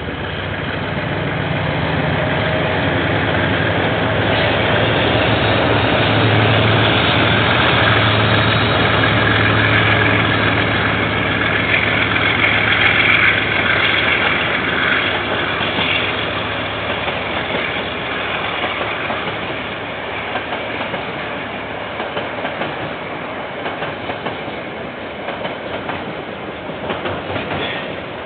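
KiwiRail freight train passing: the diesel locomotive's engine gives a steady low drone that builds and peaks mid-way, then fades. The wagons follow, rumbling and clicking over the rail joints.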